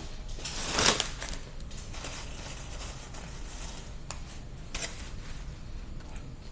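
Eating and food-handling sounds close to the microphone: a loud crackling rustle about a second in, then a few light clicks.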